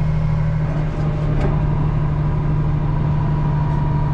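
Tractor engine running steadily: a low, even hum with a fainter steady higher tone above it.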